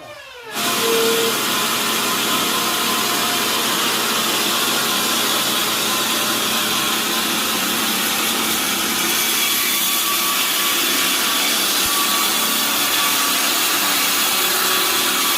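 Sawmill saw running and cutting through a large log, a loud steady hiss with a low hum underneath. It starts abruptly about half a second in and holds steady.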